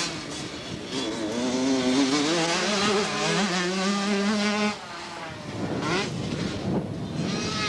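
Motocross dirt bike engine revving hard, its pitch climbing and stepping between gears, loudest from about a second in until it drops away suddenly a little past halfway. Then more revving follows.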